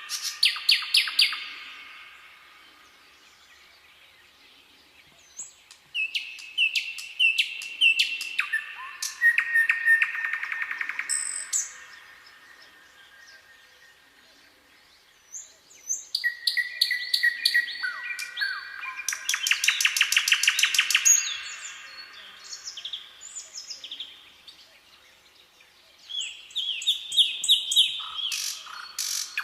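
Songbirds singing in bouts of rapid trills and repeated chirping notes, about four bouts a few seconds apart, with quieter gaps between them.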